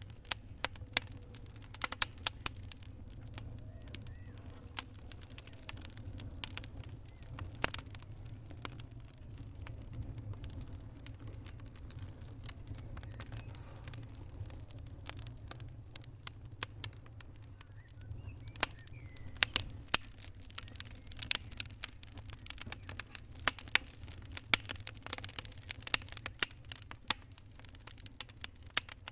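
Wood fire crackling: irregular sharp pops and snaps over a low, steady rumble, with the crackles coming thicker and faster in the latter part.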